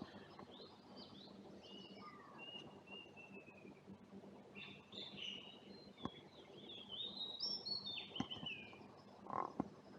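Songbirds chirping and calling, with short notes and whistles that slide in pitch. Underneath runs a neighbouring air conditioner's steady low hum. A couple of sharp ticks come near the middle and toward the end.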